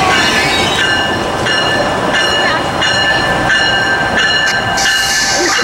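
A train passing, with several high ringing tones that break off and come back about every 0.6 s over a steady rumble. A burst of hiss rises near the end.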